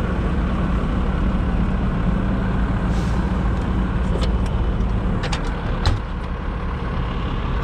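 Heavy diesel truck engine running steadily, with a few sharp metallic clanks over it. The engine's steady hum eases about five seconds in.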